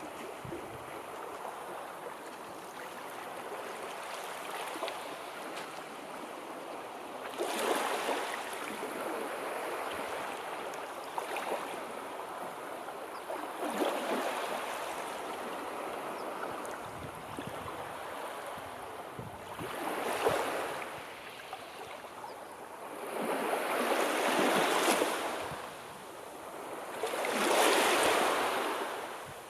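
Sea waves breaking and washing in, a steady rush of water that swells with each wave every few seconds and is loudest in the last few seconds.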